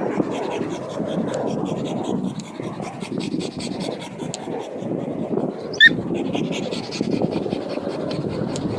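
Dog panting steadily close to the microphone, with a brief sharp squeak about six seconds in.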